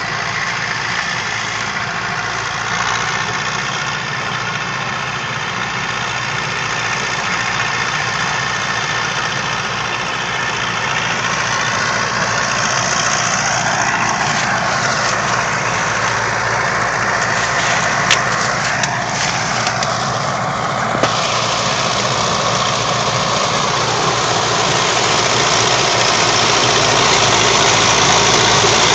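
Renault 754 tractor's diesel engine running steadily while harvesting with a two-row Zmaj corn picker, growing louder toward the end, with a couple of brief sharp clicks about two-thirds of the way through.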